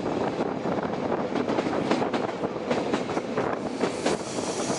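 Passenger train running along the track, heard from an open carriage window: a steady rumble of wheels on the rails with frequent irregular clicks and rattles.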